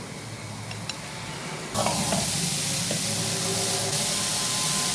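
Grated radish sizzling in a hot karahi as it is stirred with a spatula, its water cooking off. The sizzle comes in suddenly a little under two seconds in and then holds steady, with a few faint taps before it.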